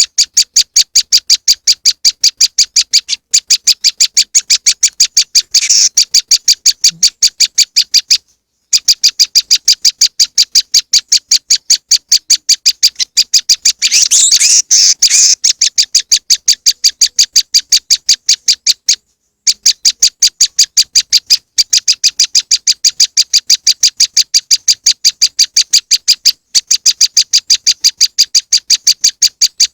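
Bird-lure recording of prenjak lumut ("moss wren") calls: a rapid, even train of sharp high chips, about six a second, broken by a few short pauses. About fourteen seconds in comes a denser, jumbled burst of calls.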